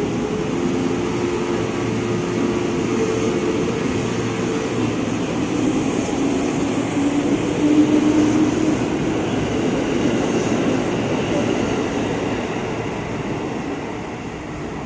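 A train passing, a steady rumble with faint humming tones, loudest about eight seconds in and dropping away near the end.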